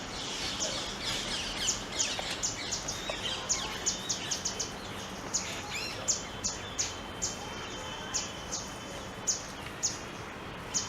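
Grey-headed canary-flycatcher calling: a long series of short, sharp, high chips, each dropping in pitch, coming irregularly about two to three a second over a steady background hiss.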